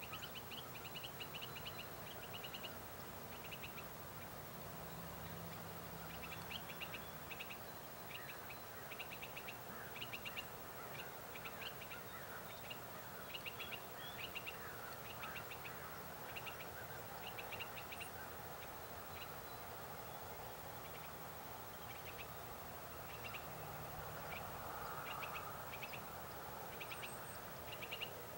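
Birds calling outdoors: short bursts of rapid chirps repeating every second or so, with a few softer gliding calls over a quiet background hiss.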